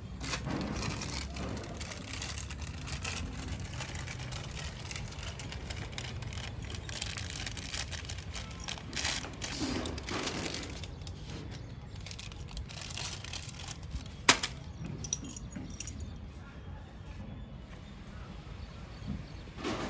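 Scattered light clinks and knocks of things being handled, over a steady low hum, with one sharp knock about fourteen seconds in.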